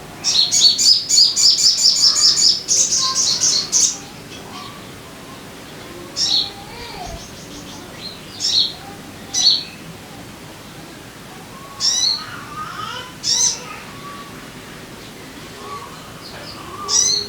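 Sogon bird song: a fast run of high chirps, about six a second, for the first few seconds, then single short, sharp, downward-sliding calls repeated every one to two seconds.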